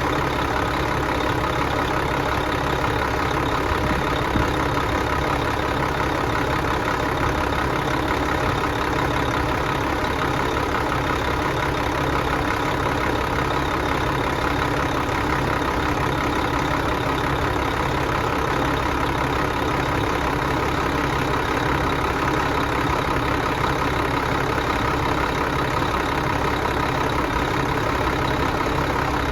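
Engine running steadily at one constant speed, with no change in pitch or load.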